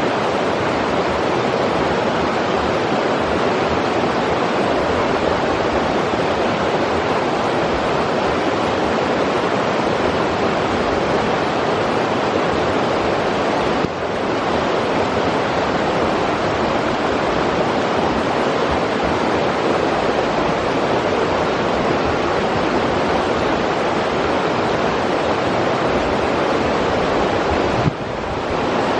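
Forest river water rushing steadily over rocks, a continuous even rush.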